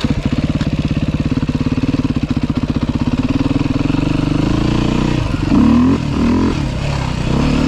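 2023 Beta 390 RR-S single-cylinder four-stroke dirt bike engine idling with a fast, even beat just after starting. It is blipped twice with quick rising revs about five and a half and six and a half seconds in, then holds a steadier, higher note near the end.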